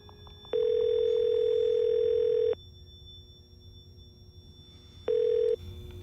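Telephone ringback tone heard down a phone line: a steady two-second tone, a pause, then a second tone cut off after under half a second.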